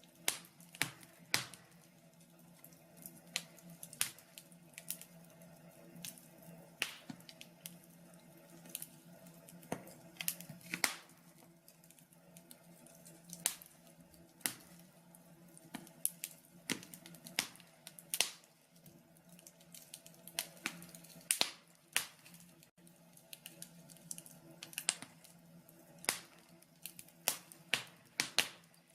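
Wood fire crackling in a log burner: irregular sharp pops and snaps, now single, now in quick clusters, over a faint steady low hum.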